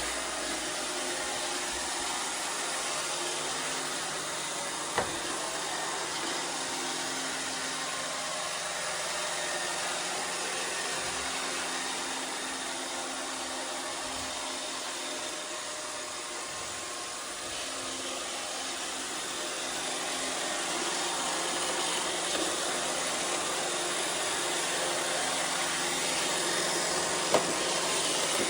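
iRobot Roomba 630 robot vacuum running, a steady whir from its vacuum motor and brushes; the uploader describes its freshly oiled bin motor as quiet. Sharp knocks about five seconds in and again near the end.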